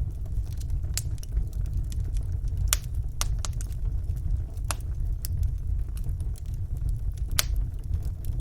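Wood fire burning in a fireplace: a steady low rumble of flames with sharp crackles and pops every second or so.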